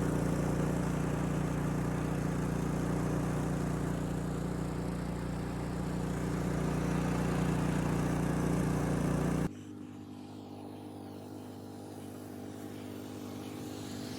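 An engine running steadily. About nine and a half seconds in, the sound drops abruptly to a quieter, steady engine hum.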